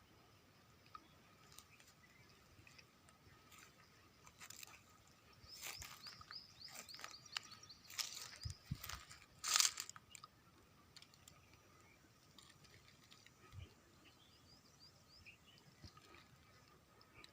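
Footsteps crunching and scraping on loose stones, a cluster of crunches partway through with one louder crunch, and a few faint bird chirps.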